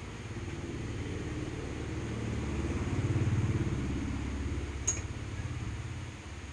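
Low rumble of a motor vehicle, most likely one passing by, swelling to a peak about three seconds in and then fading. A single sharp click comes near the five-second mark.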